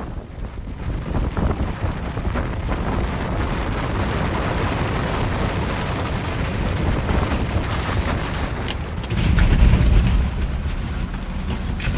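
Avalanche rumbling as a continuous noisy roar, with wind buffeting the microphone; a louder, deeper rumble swells about nine seconds in.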